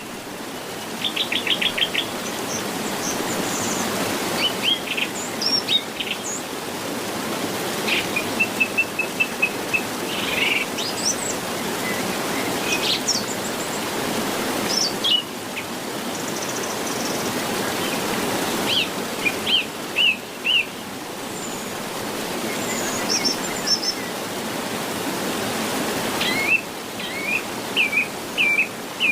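Small birds chirping and singing in short, varied calls and trills over a steady rushing hiss of background noise. The background shifts abruptly a few times.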